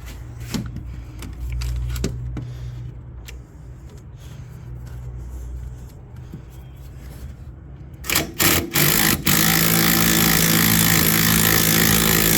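Impact wrench on a shock absorber's top nut: a few short bursts about 8 s in, then a long continuous hammering run. The shock's shaft spins along with the nut, so the nut does not come off.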